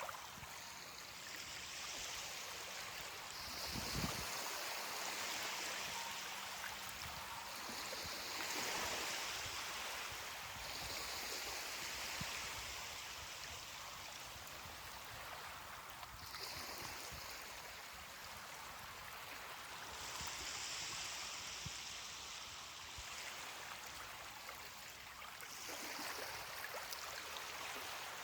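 Small ocean waves washing onto a beach: a steady hiss of surf that swells and eases every few seconds. A brief low thump comes about four seconds in.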